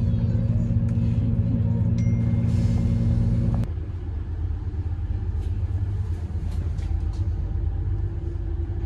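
Inside a Cross Country Voyager diesel multiple unit: the underfloor diesel engine drones steadily under power, then its note drops abruptly to a quieter, lower rumble of the train running along, about three and a half seconds in.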